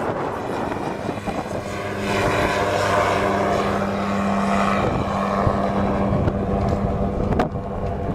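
Robinson R22 helicopter running, a steady drone with a constant hum that swells about two seconds in and eases near the end, with a sharp click about seven seconds in.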